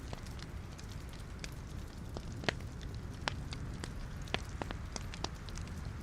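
Wood fire burning in a fireplace: a steady low rumble of the flames with irregular sharp crackles and pops of the burning logs, a few louder pops about midway.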